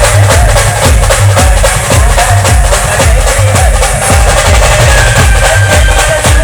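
Loud band music with a steady, heavy drum beat and dense percussion.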